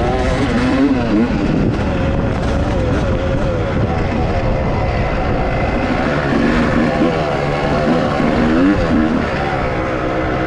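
Dirt bike engine running continuously, its pitch wavering up and down as the throttle changes.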